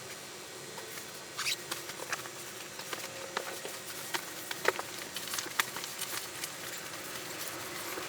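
Irregular light knocks, clicks and rustling from someone handling bedding and gear while packing up, beginning about a second in, over a faint steady hiss.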